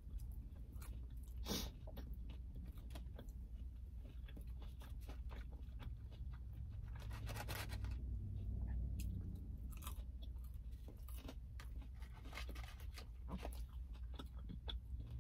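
Close-up chewing of a McDonald's chicken nugget, with scattered soft crunches and mouth clicks, over a steady low hum.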